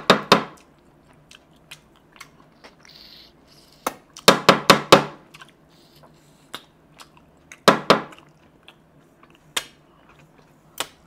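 Close-miked chewing and mouth smacks of a person eating meat off the bone by hand, in loud clusters of sharp clicks with single smacks between them.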